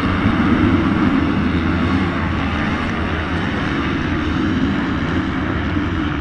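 A pack of motocross motorcycle engines running hard together, a dense, loud, continuous engine noise that eases off slightly toward the end.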